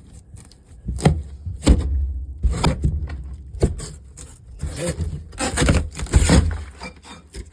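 Irregular scraping and knocking of objects being handled and moved about, over a low rumble.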